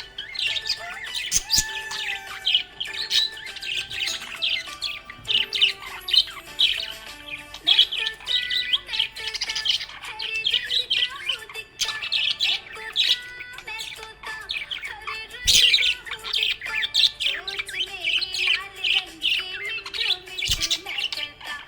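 Budgerigar chirping and warbling without pause: a rapid run of short chirps and twittering notes.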